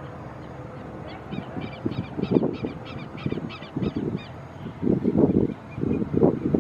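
A bird giving a quick run of about ten harsh calls, roughly three a second, starting about a second in and stopping a little past the middle, over irregular low rumbling bursts.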